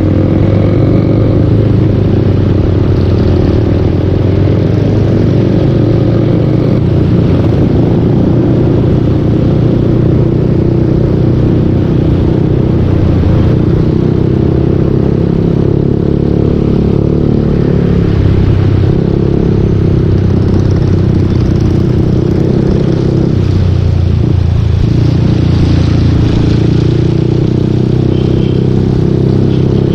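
Yamaha Aerox 155 V2 scooter's single-cylinder four-stroke engine running through a full Yoshimura exhaust while riding, its pitch rising and falling gently with the throttle.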